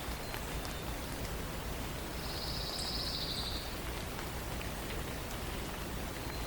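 Steady patter of light rain in a forest, with scattered drips. About two seconds in, a small songbird gives one high, fast trill lasting about a second and a half.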